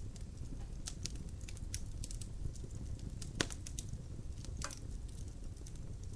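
Wood fire burning in a fireplace: a steady low rumble with frequent small crackles and one sharper pop about three and a half seconds in.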